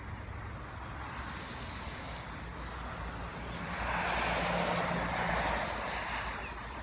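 A passing vehicle: a noisy swell that rises and fades a few seconds in, with a low steady engine hum under it.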